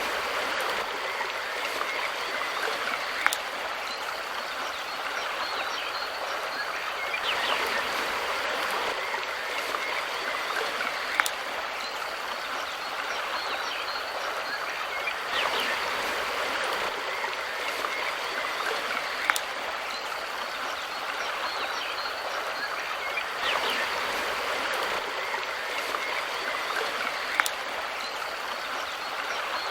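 Steady rushing and burbling of a river stream, swelling a little every eight seconds or so. A sharp click sounds about every eight seconds, so the same stretch of water sound repeats.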